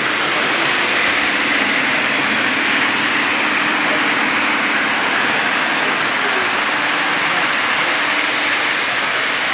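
Lionel O-gauge model trains running on the layout: a steady, even rolling noise of wheels on track with a faint, constant low hum under it.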